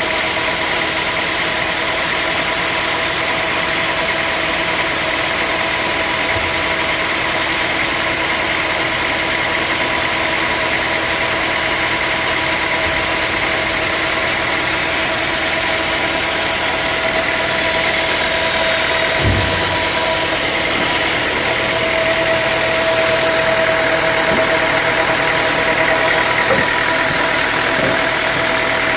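Sawmill machinery running steadily: a continuous machine drone with a steady whine over it. A single low thump comes about 19 seconds in.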